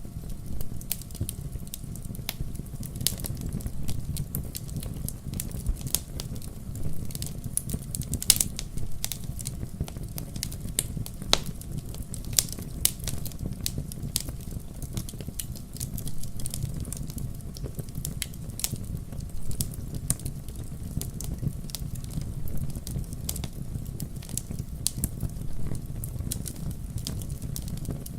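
Fireplace wood fire crackling, with frequent sharp snaps over a steady low rumble of the flames.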